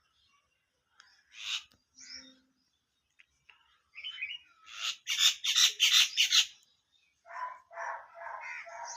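Birds calling: a few scattered calls, then a loud run of rapidly repeated calls, about four a second, near the middle, followed by a series of harsher calls near the end.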